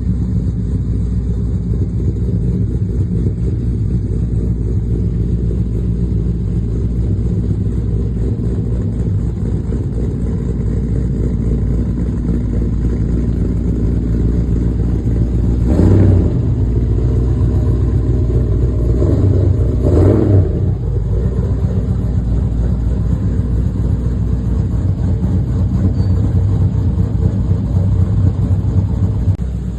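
A vehicle driving on the road: a steady, loud, low engine and road rumble, with two brief louder swells about halfway through and again a few seconds later.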